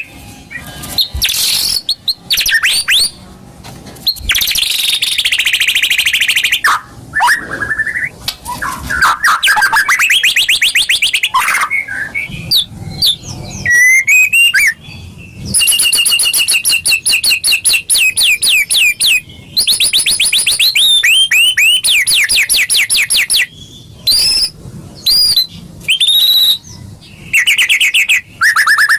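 Songbird singing loudly and continuously in a lure ('pancingan') recording for white-rumped shamas: fast trills of rapidly repeated notes alternating with slurred whistled phrases. Near the end the song breaks into separate short whistles with brief pauses.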